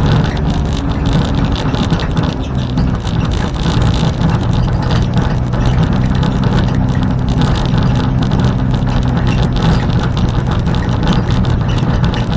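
Renault Clio 1.8 16v's four-cylinder engine heard from inside the stripped cabin: its note shifts in the first few seconds, then runs steadily at a low pitch. A constant clatter of short knocks and rattles runs under it.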